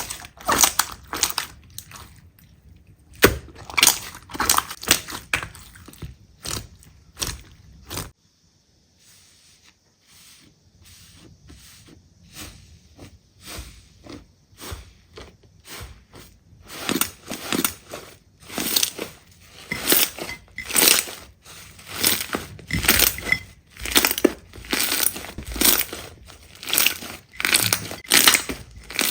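Slime being squeezed and pressed by hand, giving rapid crackling and popping clicks. The sound cuts off abruptly about eight seconds in, comes back faintly, and is loud and dense again from about seventeen seconds.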